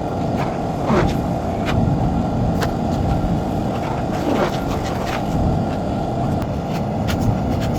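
A vehicle running with a steady low rumble, with scattered light clicks and ticks over it.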